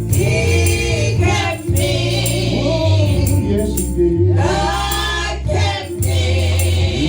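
Church praise team singing a gospel song with live band accompaniment: voices hold long, wavering notes over a steady bass line and light percussion.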